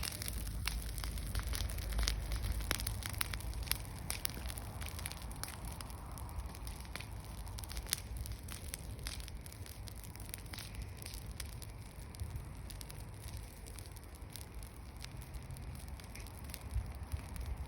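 Wood bonfire crackling, with irregular sharp pops scattered throughout over a steady low rumble.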